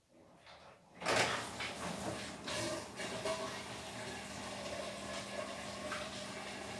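Beko WTK104121W washing machine starting up again after a pause, about a second in: a sudden rise to a steady running noise with a constant hum beneath it.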